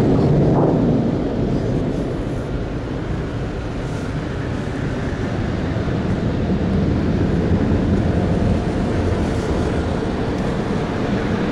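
Automatic car wash machinery running: a loud, steady rushing and rumbling noise.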